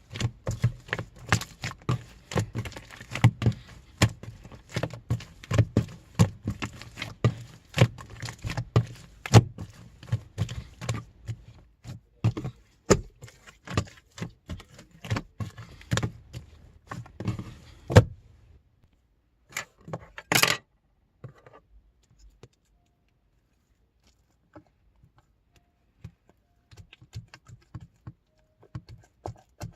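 Pink slime being squeezed and kneaded by hand, making rapid clicking pops and squelches for about eighteen seconds, then only a few scattered squishes.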